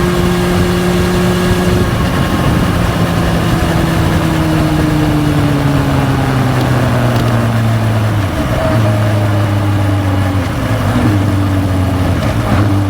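Honda CB400SF Hyper VTEC inline-four running through a Yoshimura titanium full exhaust system. The exhaust note holds steady for a couple of seconds, then its pitch falls slowly as the revs drop off, with a gear change about eight seconds in and another shift in revs near the end.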